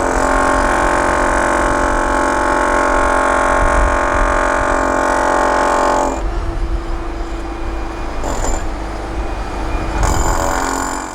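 Heavy diesel construction machinery running, with a loud, steady, many-toned whine over the engine for about six seconds. It then turns quieter and rougher, with a louder surge near the end.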